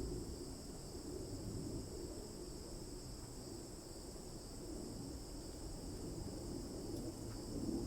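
Steady chorus of insects, an even high buzz that does not let up, over a low uneven rustle and rumble.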